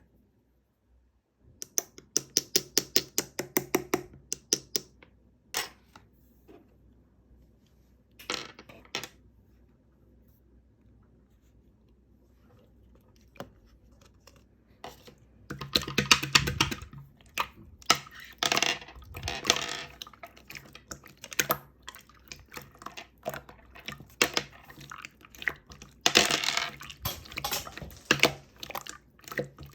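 Slime with small heart-shaped plastic charms mixed in, being pressed and worked by hand: quick runs of sharp clicks and crackles, with a quiet pause in the middle before the clicking comes back thick and fast.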